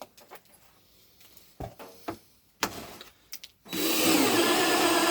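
A few light knocks and clicks of handling, then near the end a cordless drill starts and runs steadily at one pitch, drilling a hole.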